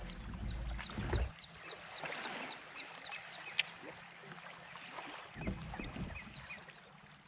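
Songbirds chirping, a run of short, quickly falling notes repeated again and again, over a faint haze of water and outdoor noise. A low rumble fills the first second or so, and a single sharp click comes about halfway through.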